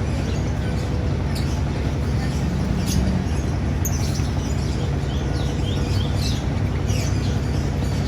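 Small birds chirping: many short, high chirps, several a second, over a steady low rumble of background noise.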